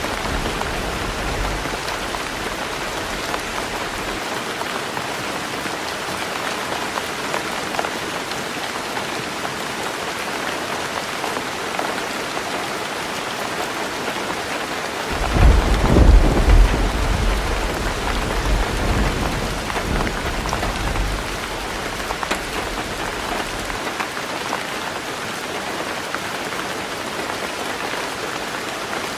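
Heavy rain falling steadily on a roof. A low rumble of thunder fades out in the first few seconds, and another rolls in about halfway through and dies away over several seconds.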